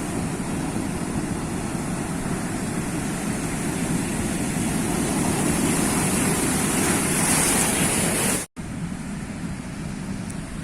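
Sea waves washing, swelling into a louder surge about eight seconds in. The sound then drops out for a split second and comes back as a quieter, steady wash.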